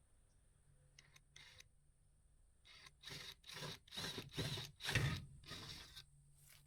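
A series of about seven rough scraping strokes in quick succession, loudest near the end, after a few faint ticks.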